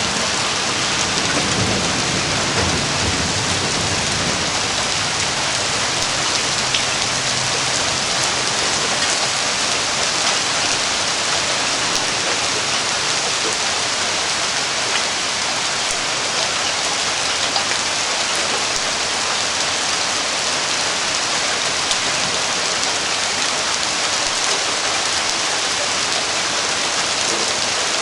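Heavy rain falling steadily in a thunderstorm, with a low rumble of thunder in the first several seconds that fades away.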